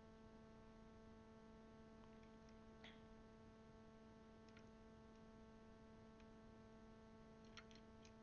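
Near silence over a steady electrical hum, with a few faint clicks of plastic keycaps and a stabilizer bar being handled and fitted on a mechanical keyboard, a small cluster of them near the end.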